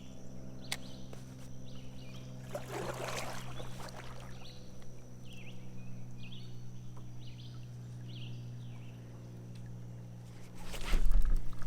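Kayak on a creek: water and hull sounds with a splash about three seconds in, a run of short high chirps through the middle, and a louder low bump near the end, over a steady low hum.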